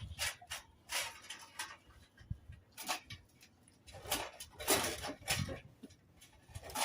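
German Shepherd dogs close by making a scatter of short scuffs, clicks and breathy noises, busiest about four to five and a half seconds in.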